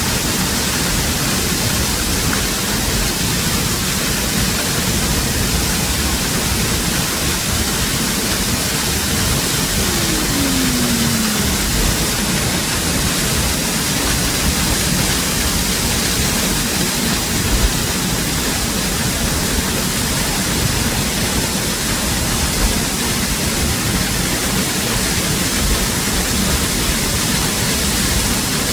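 Waterfall: a steady rush of falling water, with a short falling tone about a third of the way through.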